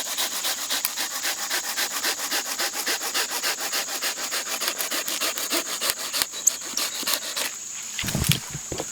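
Hand saw cutting through a wooden branch with quick, even back-and-forth strokes, which stop a little before the end; a few dull knocks follow.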